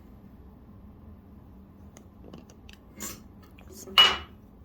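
Small handling sounds of heart ornaments: light rustles and clicks, then one sharp clink with a brief ring about four seconds in.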